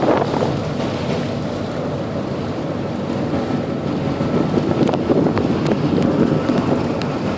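Wind rushing over a phone microphone aboard a moving ferry, mixed with the steady wash of the sea, with a few faint clicks in the second half.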